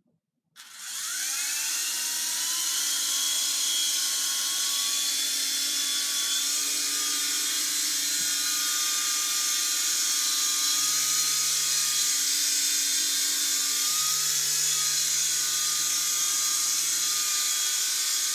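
RC helicopter's electric motors and rotors spinning up. A whine rises in pitch over the first couple of seconds, then holds as a steady whine with a hiss.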